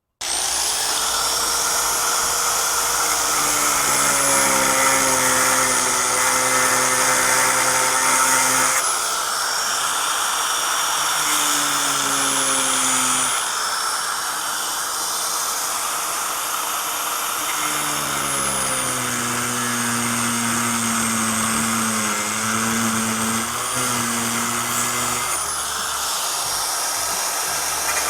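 Angle grinder switching on and cutting through the pop-up camper's roof around the roof-brace plate. Its high whine sags in pitch each time the disc bites under load and climbs back between passes.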